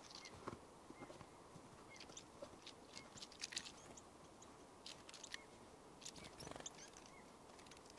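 Small forest birds at a sunflower-seed feeder: faint scattered pecking and cracking clicks, with a short high call note repeated about once a second.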